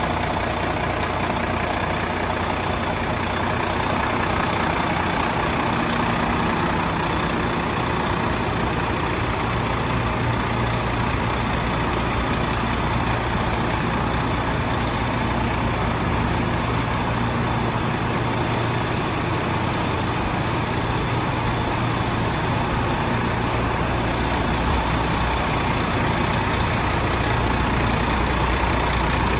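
Volvo FM 440 tractor unit's D13A 13-litre straight-six diesel idling steadily.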